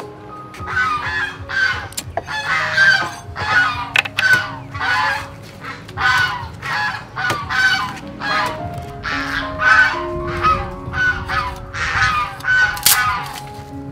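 Honking bird calls, goose-like, repeating about twice a second over soft background music.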